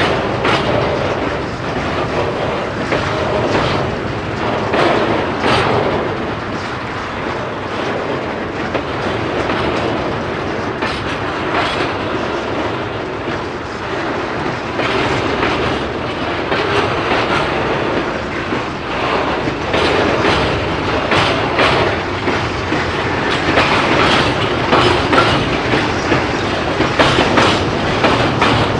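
Freight train wagons rolling past, their wheels clattering with irregular clicks and knocks over the rail joints and the crossing.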